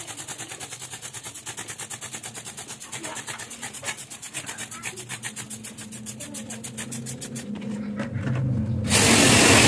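Rapid, even rubbing or scraping, about seven or eight strokes a second, over a faint low hum. Near the end a much louder, steady motor noise starts.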